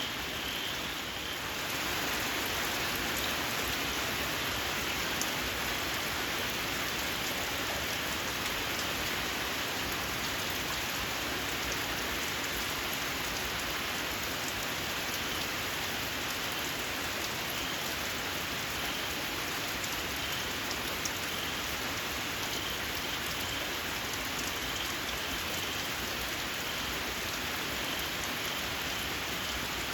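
Steady rain falling, a little heavier from about two seconds in, with faint high, rapidly repeated chirps from small frogs calling in the rain at the start and again through the second half.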